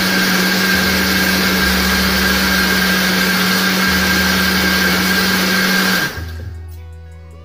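Panasonic MX-GM1011 countertop blender running steadily at full speed, blending yogurt, gram flour, tomato and water into a thin batter. It is switched off about six seconds in and the motor spins down.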